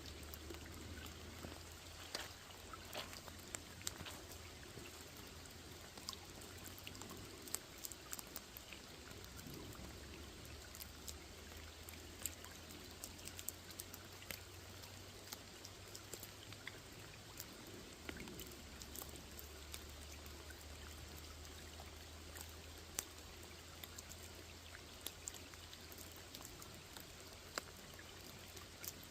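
Rain falling on a small pond: a soft, even patter with many separate drops ticking at irregular moments, over a low steady rumble.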